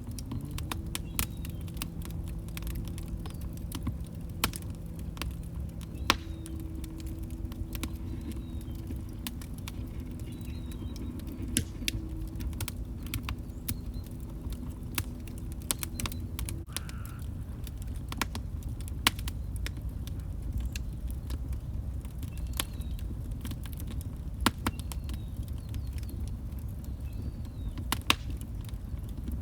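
Log fire crackling: irregular sharp pops and snaps over a steady low rumble. A low steady hum of a few tones runs underneath and stops about sixteen seconds in.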